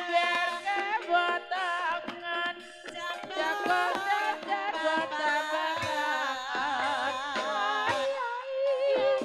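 Live ebeg accompaniment music: a wavering pitched melody, sung or played on a trompet, over drum strokes.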